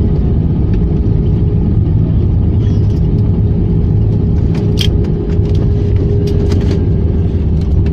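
Airliner cabin noise during the landing roll: a loud, steady rumble with a constant hum, and a few light clicks and rattles.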